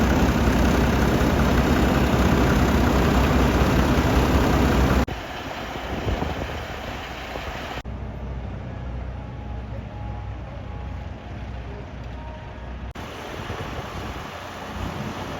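Vehicle engine running, loud for about five seconds, then cut to quieter engine and background noise, with further abrupt changes between shots.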